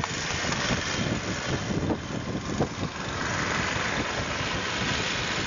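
Strong blizzard wind buffeting the microphone in an irregular low rumble, with the steady rushing of blowing snow and an engine running underneath.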